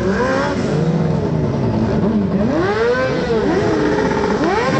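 Several vehicle engines revving, one over another. Each rev climbs in pitch and falls away again within about a second, over a steady engine rumble.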